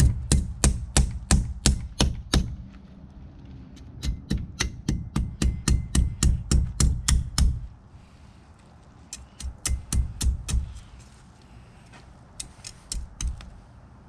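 Rapid chopping blows through an alligator gar's armored hide, about three strikes a second in several runs with short pauses between them, each a sharp knock.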